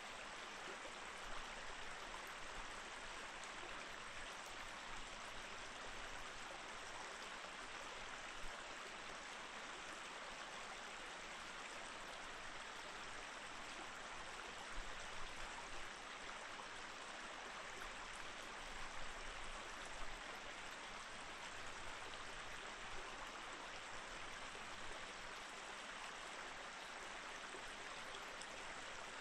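Mountain stream flowing: a steady rush of water with a few brief louder moments.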